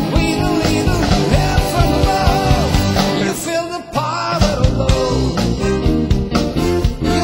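Rock-style song with a singing voice over guitar, bass and drums keeping a steady beat; the bass and drums drop out briefly just before four seconds in, then come back.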